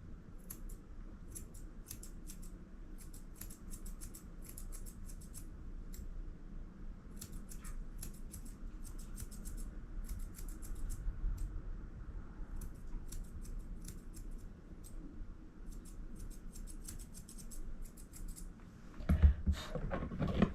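Grooming scissors snipping dog hair in runs of quick cuts, trimming the fur around a puppy's eyes. Near the end there is a louder brief thump and rustle.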